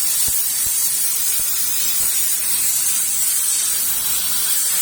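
Pressurised nitrogen hissing steadily as it blows solvent through an existing air-conditioning copper pipe to flush out old oil and dirt.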